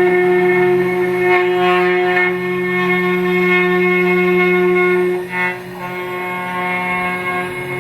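CNC router spindle running with a steady, strongly pitched whine while machining a rifle stock. The pitch dips briefly a couple of times, and the sound gets quieter after about five seconds.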